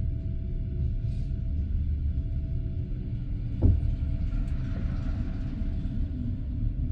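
Low steady rumble of a passenger train carriage heard from inside, with a faint steady hum and a single sharp clunk about halfway through.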